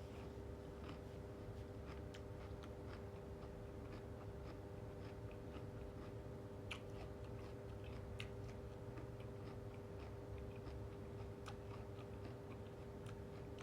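A person chewing and biting food, here a spicy seafood instant-noodle salad with squid and shrimp, with scattered small wet mouth clicks over a steady hum.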